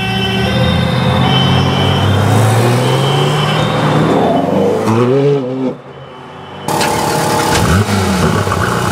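2017 Porsche 911 R's 4.0-litre naturally aspirated flat-six pulling away, its note rising steadily, then a few quick revs. After the sound drops away abruptly for about a second, the engine idles with a short rev blip near the end.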